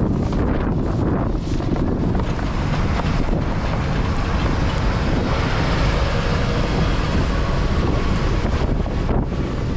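Blizzard wind blowing hard across the microphone: a loud, steady rumble that rises and falls slightly.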